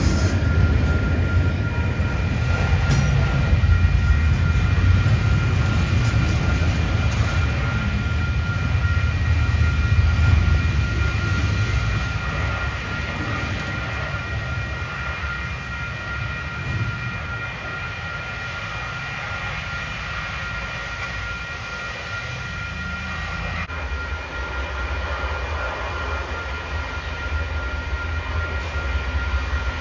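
Double-stack intermodal freight cars rolling past close by: a steady heavy rumble of wheels on rail with a thin high whine riding over it. The rumble eases about twelve seconds in, then builds again near the end as a Union Pacific locomotive approaches.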